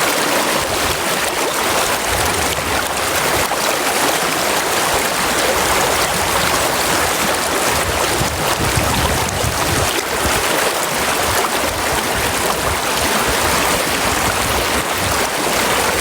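Brook water rushing steadily, with a few stretches of low rumble mixed in.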